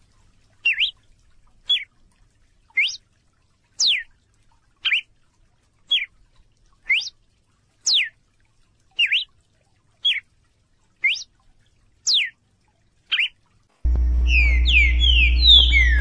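A bird calling a single quick, sweeping note about once a second, a dozen times over. Near the end, music with a steady low drone and gliding tones starts.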